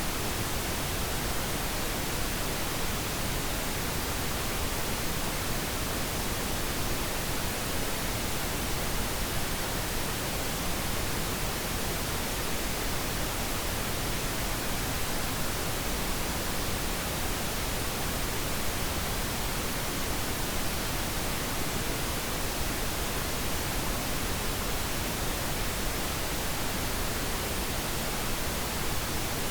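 Steady pink noise: an even, unchanging hiss, used as a sleep sound for babies.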